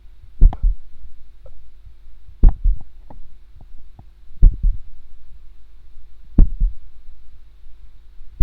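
Slow heartbeat, each beat a low double thump, about one beat every two seconds over a low steady hum.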